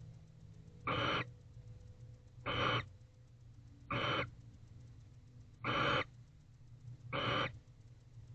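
Barn owl giving short, harsh hissing calls, five in a row at an even pace of about one every second and a half. A steady low hum runs underneath.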